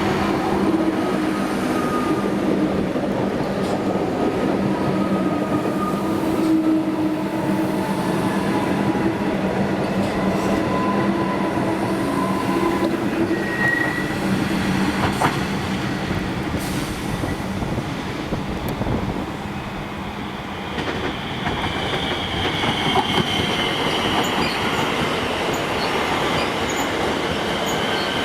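Melbourne suburban electric train running through a station, with a steady rumble of wheels on rail. High-pitched wheel squeal comes in about two-thirds of the way through.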